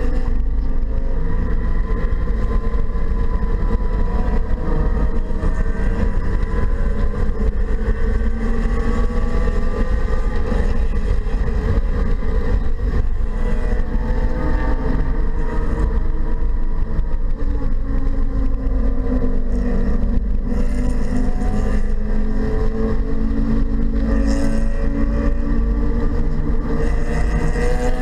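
BMW 228i's turbocharged 2.0-litre four-cylinder engine under hard track driving, heard from inside the cabin, its pitch rising and falling with the revs, over a constant low road and wind rumble.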